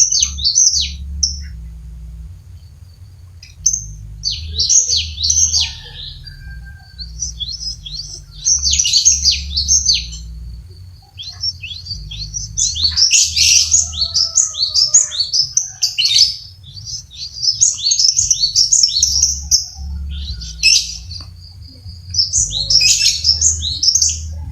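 Cinereous tit (gelatik batu) singing vigorously: phrases of rapid, high, down-slurred chirping notes delivered in bursts with short pauses between them, the longest run in the middle.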